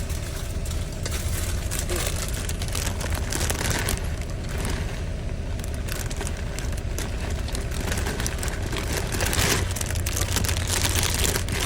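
Truck engine idling as a steady low hum, under irregular crackling and crinkling as ingredients are handled and added to the pan.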